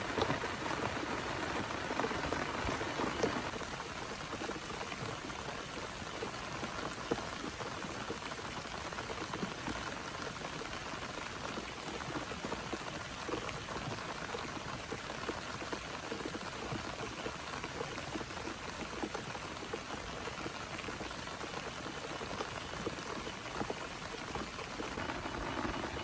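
Heavy rain falling steadily: a dense mass of drops over a hiss, a little louder in the first few seconds.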